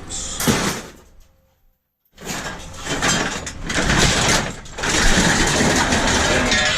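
Scrap metal being handled and shifted about: a short burst of scraping, a brief gap, then continuous scraping and rattling with scattered knocks.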